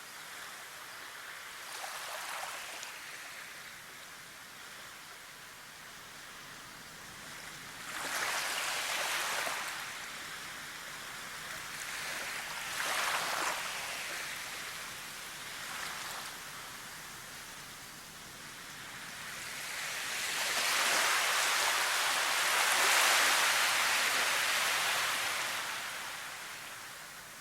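Nature ambience of rushing, hissing noise that swells and fades in surges: short swells a couple of seconds in, around eight, thirteen and sixteen seconds in, then a long build near the end.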